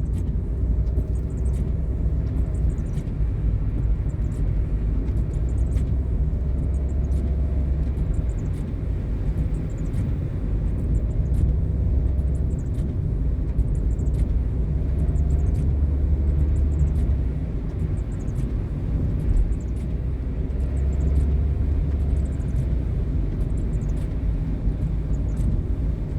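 Car engine and road rumble heard from inside the cabin while driving uphill, the engine note rising and falling a little. Faint high chirps recur over the rumble.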